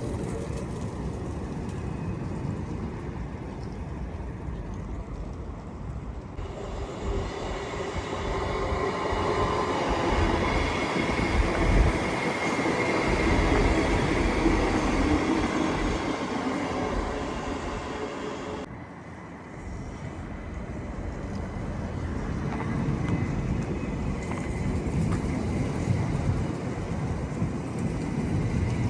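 A train running along the track, a steady rumbling rail noise that swells as it passes, loudest about halfway through. The sound changes abruptly about six seconds in and drops briefly about two-thirds of the way through before the rail noise carries on.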